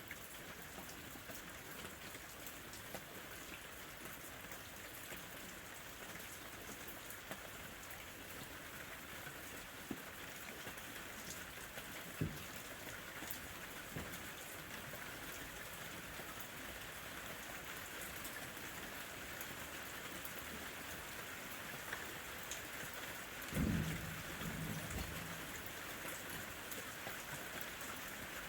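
Steady summer rain falling, an even hiss of drops with scattered small ticks. About three-quarters of the way through comes a short low rumble lasting about a second and a half.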